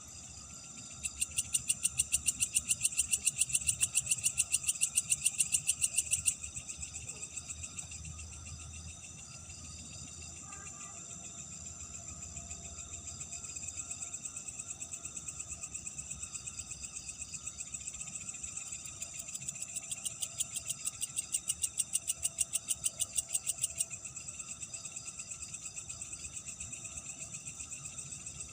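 Night-time chorus of calling insects: a steady high-pitched shrill, with a loud, fast pulsing trill for about five seconds near the start and again later on.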